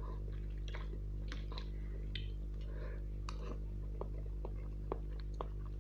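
Close-miked eating of Maggi chicken noodles: irregular wet mouth clicks and smacks as he chews and takes in a forkful of noodles, over a steady low hum.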